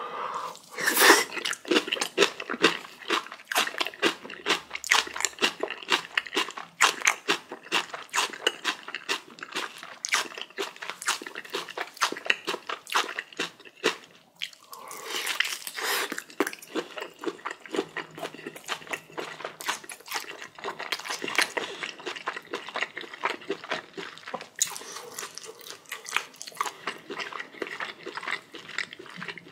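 Close-miked crunching and chewing of spicy napa cabbage kimchi with boiled pork, a rapid, wet run of crunches several times a second.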